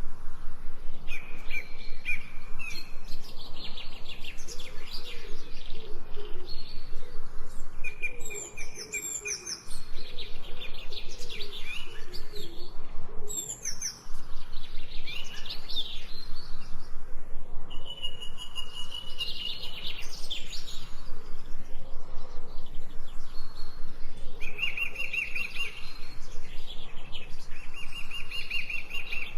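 Several songbirds singing, with repeated held whistled notes and quicker trilling phrases, over a steady background hiss.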